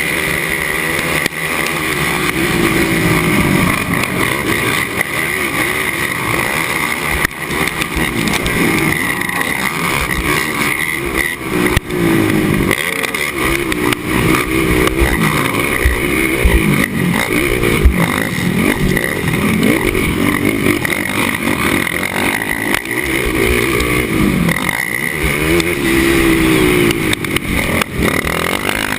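Racing ATV engine, loud and continuous, revving up and down over and over as the quad accelerates and backs off.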